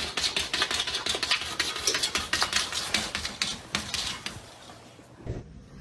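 A fast run of light, sharp clicks or taps, several a second, that stops after about four seconds, followed near the end by a single dull knock.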